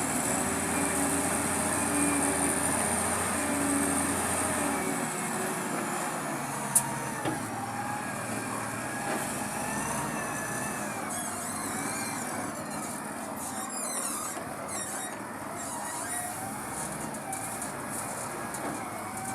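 A heavy vehicle's engine running steadily, with one sharp clack about seven seconds in.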